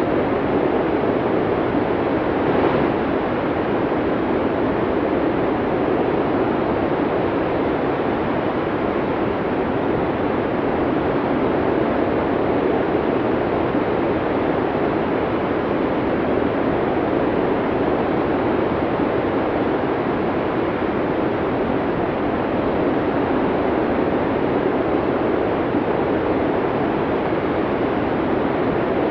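Snowstorm wind blowing hard and steadily: a dense, unbroken rushing noise.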